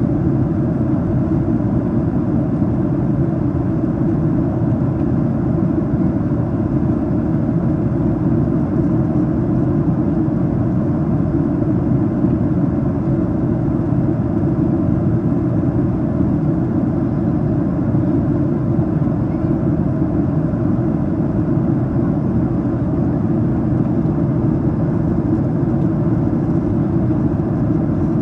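Steady cabin noise of a Boeing 737-800 in descent: an even, low rush of airflow and engine noise that holds level throughout.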